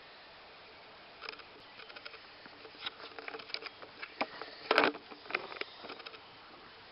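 Irregular clicking and rustling, with one louder burst of crackle a little before the five-second mark.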